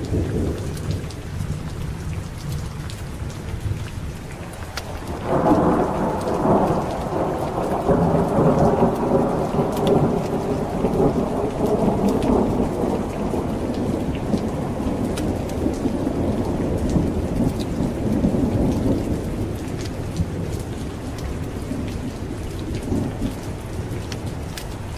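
Steady heavy rain with a thunderclap breaking in about five seconds in and rolling on for over ten seconds before slowly fading, with a smaller rumble near the end.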